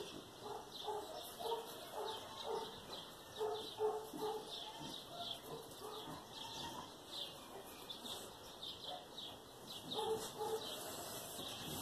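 Birds calling over and over: short low calls about twice a second, with quick falling chirps higher up.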